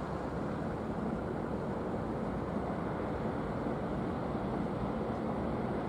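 Steady low rumble and hiss of distant electric freight trains approaching along the tracks. Nothing stands out from it: no horn, no clatter, no change in level.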